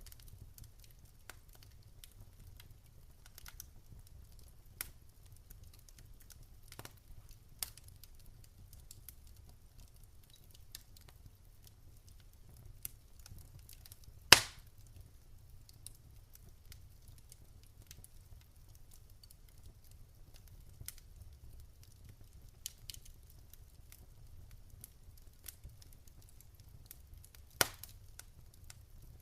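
Wood fire crackling in a fireplace: scattered sharp pops and snaps over a faint low rumble, with one loud pop about halfway through and another near the end.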